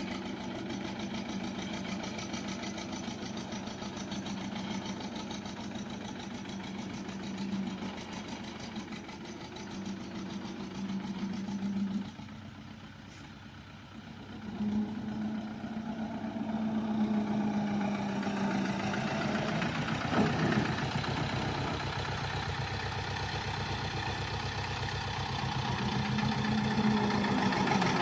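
HMT tractor's diesel engine running steadily, with a brief dip about twelve seconds in before it picks up again and runs a little louder toward the end.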